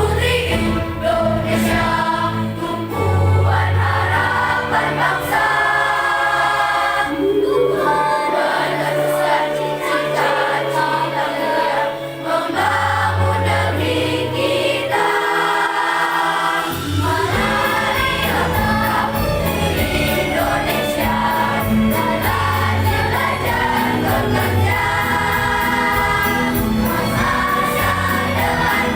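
Primary school children's choir singing in unison with instrumental accompaniment, over sustained low bass notes; a steady percussive beat comes in near the end.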